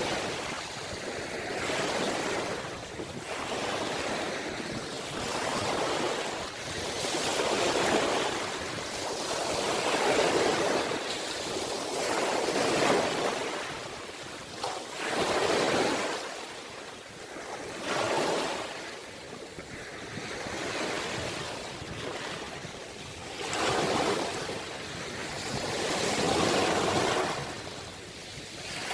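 Sea waves breaking and washing in. The surf swells and falls back every two to three seconds.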